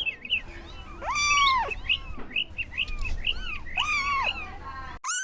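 Kitten meowing: two drawn-out meows that rise and fall, about a second in and near four seconds, with another beginning right at the end. Quick, high chirping calls run underneath.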